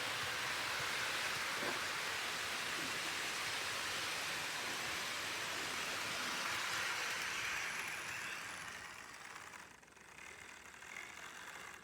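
HO-scale model freight train running on track, hauled by a Lima E444 electric locomotive model: a steady rolling rush from the wheels and the locomotive's motor, fading away from about eight seconds in.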